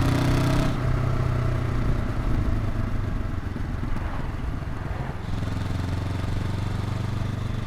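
Honda NX500's 180-degree parallel-twin engine running under way in fifth gear, heard at the exhaust. The engine note and the hiss above it drop back about a second in and come back stronger about five seconds in.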